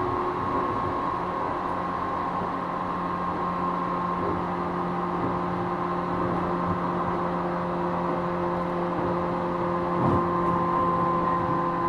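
Running sound inside a JR East 455 series EMU motor car. The MT54 traction motors and gearing whine at a steady pitch over the rumble of wheels on rail as the train holds a steady speed. There is a single knock about ten seconds in.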